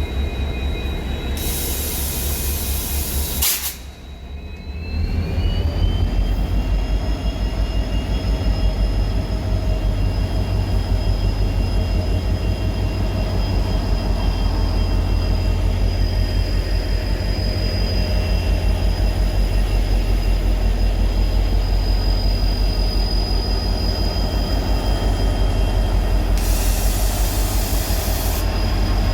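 Twin EMD two-stroke diesel locomotives, a WDG4 and a WDG4D, pulling away under power with a deep pulsing engine hum. A high turbocharger whine rises in pitch about four seconds in and then holds steady. Bursts of high hiss come near the start and again near the end.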